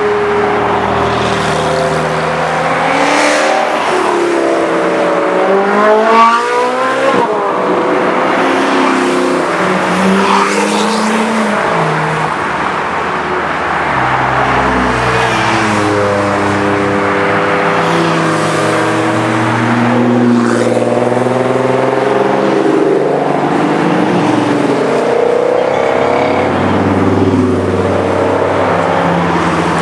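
Supercar engines revving and accelerating. The pitch rises and falls repeatedly, with a steep, loud climb about six seconds in.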